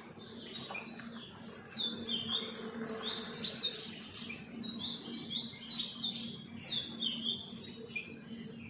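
Birds chirping: a rapid run of short, high chirps that grows busier about two seconds in and thins out near the end.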